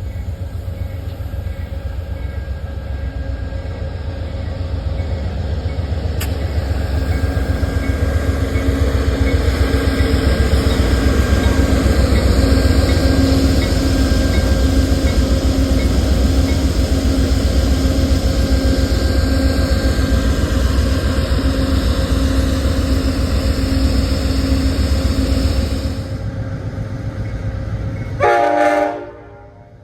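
Train passing close by: a steady deep rumble of the locomotive and of wheels on the rails, building to a peak midway and easing off. A short horn blast sounds near the end, and the sound then cuts off.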